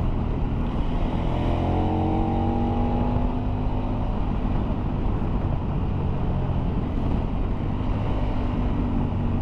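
Heavy loaded motorcycle riding on the road, heard from the rider's position: steady engine rumble under wind rush, the engine note climbing as it accelerates between about one and three seconds in.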